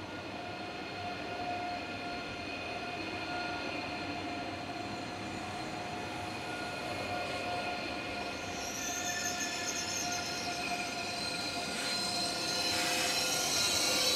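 ICE electric high-speed trains rolling slowly through the station, with a steady humming tone. From about nine seconds in, a wavering high-pitched wheel squeal joins it and grows louder near the end as the trains pass.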